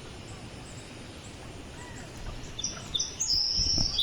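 A bird calling in outdoor rural ambience, beginning past the middle with a string of short, high, steady notes. There is a low thump near the end.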